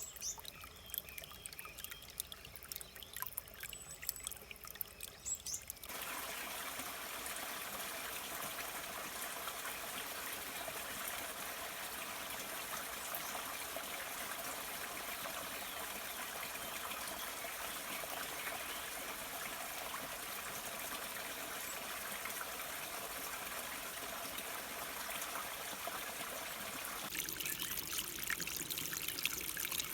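Stream water trickling and splashing unevenly, then about six seconds in it switches abruptly to a steadier, fuller rush of flowing water; near the end the sound changes again to a brighter splashing.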